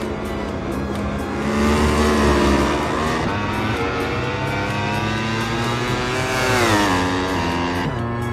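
MotoGP racing motorcycle engine at high revs, its pitch climbing through the gears and then falling steeply near the end.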